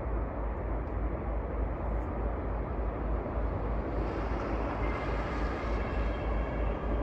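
Steady outdoor noise dominated by a heavy, pulsing low rumble of wind on the microphone, with faint thin high tones coming in about four seconds in.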